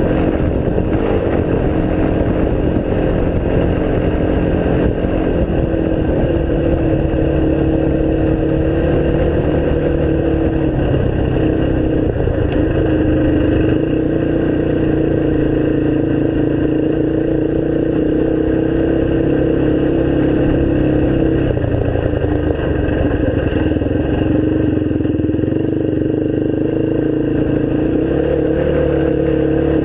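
Single-cylinder off-road engine running under way at cruising speed, its pitch holding steady for stretches and stepping up and down a few times with the throttle.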